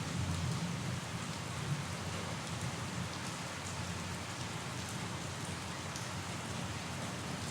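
Steady rain: an even hiss of rainfall with the patter of drops, over a constant low rumble.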